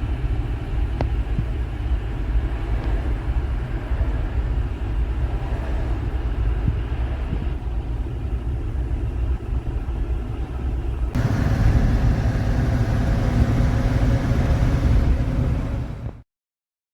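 1970 Chevrolet C10 pickup running, a steady low rumble. About eleven seconds in it cuts abruptly to a louder, brighter stretch, which stops suddenly just before the end.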